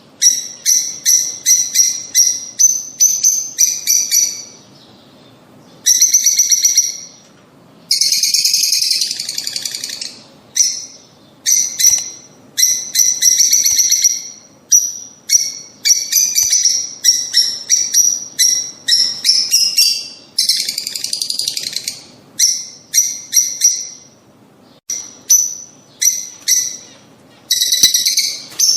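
Lovebirds chirping in rapid runs of short, shrill calls, broken by brief pauses, with longer harsh screeches about eight seconds in and again around twenty seconds.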